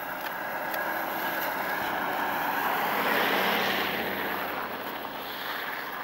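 A motor vehicle passing by on the street. Its engine and tyre noise swells to a peak about three seconds in, then fades.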